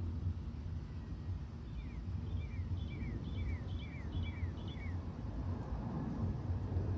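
A steady low rumble, with a bird calling in the middle: about seven short falling notes, roughly two a second.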